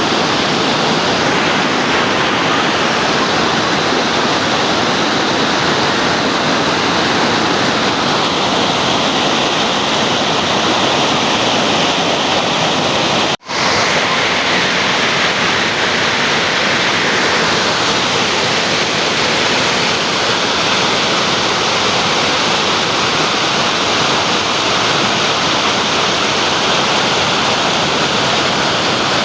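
Waterfall rushing in a loud, steady roar of falling water, broken by a momentary dropout about halfway through.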